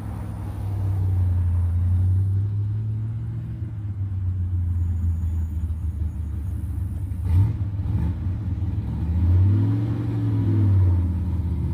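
A car engine with a loud exhaust rumbling at low revs as it pulls away, with a sharp throttle blip a little past halfway and a rev that rises and falls near the end.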